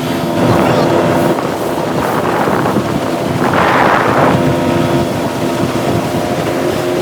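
Speedboat engine running steadily under way, with wind buffeting the microphone. Surges of rushing noise come about 1, 2 and 4 seconds in, the loudest near 4 seconds.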